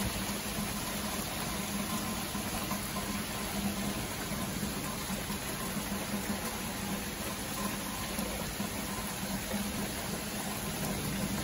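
Car running steadily, a constant low hum under an even hiss.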